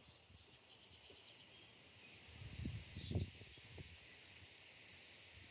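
Small birds chirping outdoors: a quick run of short repeated chirps at first, then a burst of high, falling chirps about halfway, over a steady high insect-like hiss. A brief low rumble lasting about a second, the loudest sound here, comes with the falling chirps.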